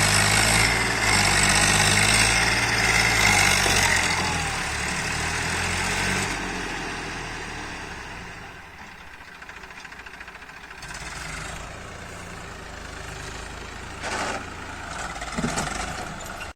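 Tractor diesel engine running, loud for the first few seconds and then fading down to a low level, with a short louder noise near the end.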